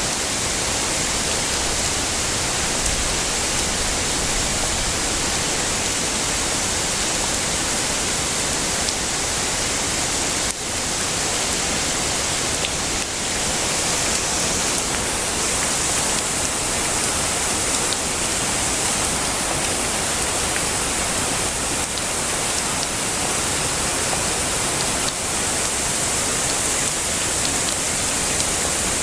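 Heavy rain falling steadily: a dense, even hiss with a few faint sharp drop ticks.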